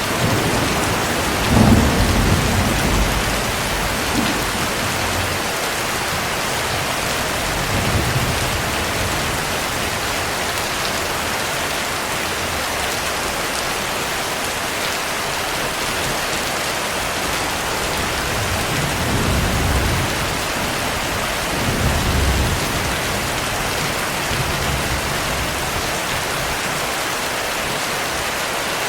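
Heavy rain falling steadily, with low rumbles of distant thunder rolling in several times, the loudest about two seconds in.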